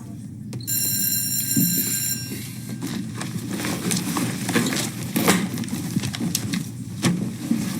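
A steady electronic tone sounds for about a second and a half, followed by scattered knocks and clattering.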